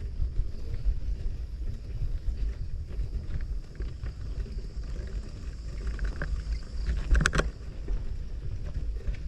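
Wind rumbling on the microphone of a camera riding along on a moving bicycle: a gusty low rumble, with a short cluster of sharp clicks about seven seconds in.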